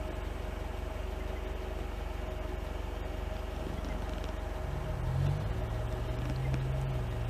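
All-terrain vehicle engine idling steadily, with a deeper engine note coming in about five seconds in.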